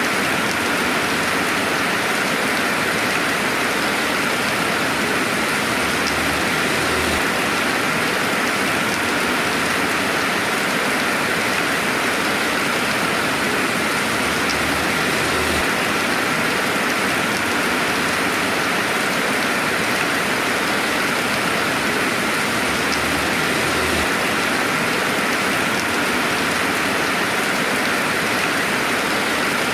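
Steady rainfall, an even hiss of falling rain without thunder, with a few faint drop ticks here and there.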